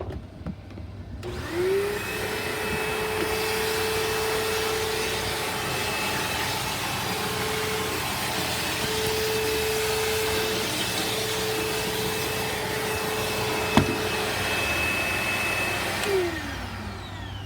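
Bissell Rewind SmartClean upright vacuum cleaner switched on about a second in, its motor whining up to speed and then running steadily. A single sharp knock comes about two-thirds of the way through, and the motor is switched off near the end and winds down.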